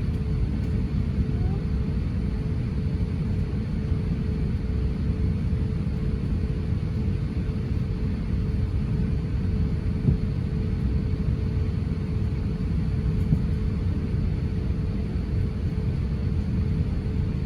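Steady low rumble of an Airbus A350-900 in flight, heard from inside the cabin, with a faint steady hum above it.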